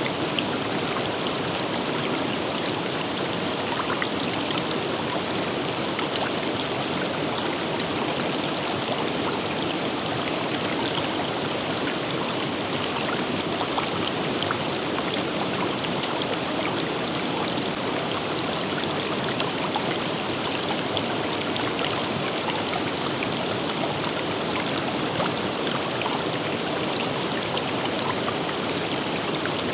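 A forest river flowing steadily over rocks: a continuous rushing and babbling of water, with small splashes dotted through it.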